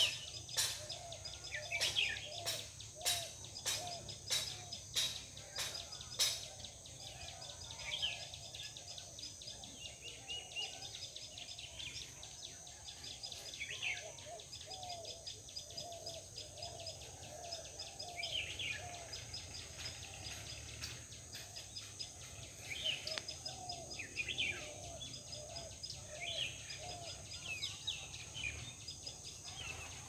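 Birds calling in a bamboo thicket: runs of short, low, repeated notes and scattered higher chirps over a steady high-pitched hum. A series of sharp clicks, about two a second, sounds during the first six seconds.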